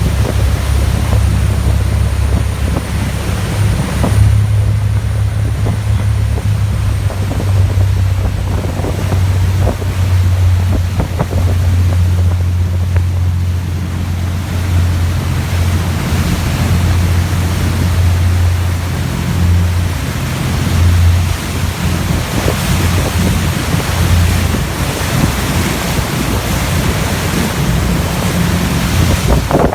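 Wind buffeting the microphone and the rush of sea water aboard a motor yacht under way on sea trial. Underneath is a low steady drone that fades out about 25 seconds in.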